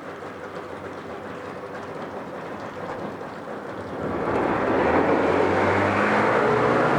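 A 2000 Johnson 50 hp two-stroke outboard motor, just restarted, running in a test tank. It becomes clearly louder about four seconds in, with a steadier engine note.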